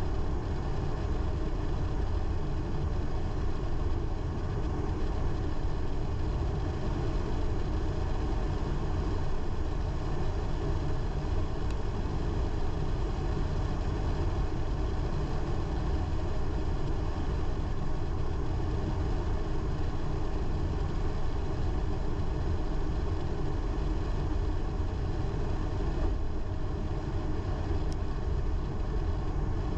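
A car driving steadily along a road: constant engine and tyre rumble, strongest in the low end, with no marked changes.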